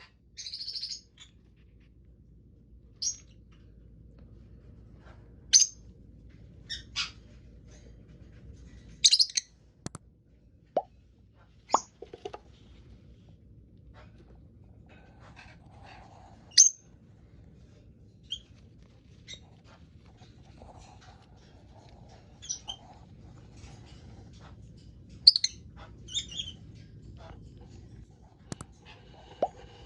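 Lovebirds giving short, sharp, high-pitched chirps, one at a time at irregular gaps of one to a few seconds, over a faint low hum.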